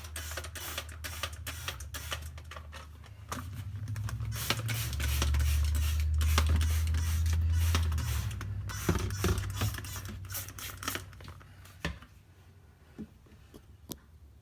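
Rapid clicking and clattering of hard plastic dishwasher parts being handled and fitted back into place, over a low hum that swells in the middle and fades out, leaving only a few scattered clicks near the end.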